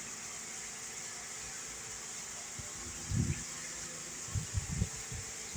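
Steady hiss of heavy, torrential rain falling. Dull low bumps come about three seconds in and again a second or so later.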